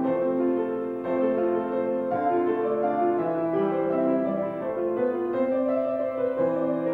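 Piano music: slow, sustained chords that change about once a second.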